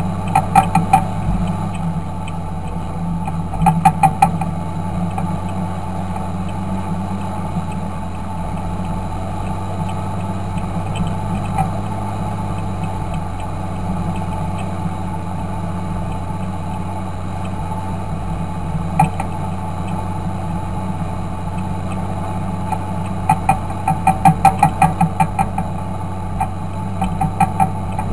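Fendt 926 Favorit tractor's six-cylinder turbo diesel running steadily at a constant engine speed. Short bursts of rapid clicking come through over it about half a second in, again around four seconds, and repeatedly near the end.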